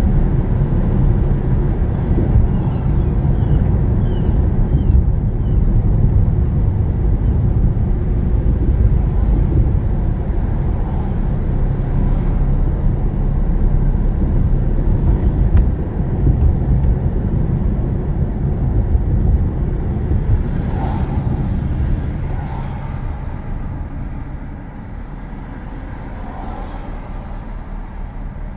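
Road and engine noise of a moving car heard from inside the cabin: a steady low rumble that grows quieter over the last third.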